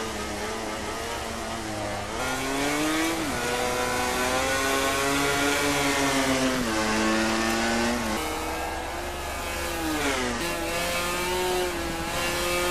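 MotoGP racing motorcycle engine at high revs. Its pitch climbs, drops sharply at gear changes, and falls away under braking before climbing again several times.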